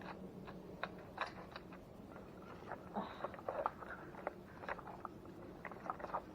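Toy bulldozer's plastic blade pushing through dry dirt: quiet, irregular crunches and clicks of soil and small stones, a few a second.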